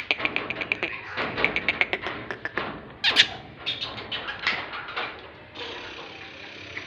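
Tame francolin (teetar) calling in rapid series of short, sharp clicking notes, with one louder call about three seconds in.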